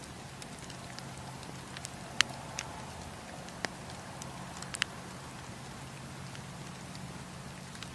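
Campfire crackling: wood burning with scattered sharp pops and snaps over a steady low background, the loudest pop about two seconds in.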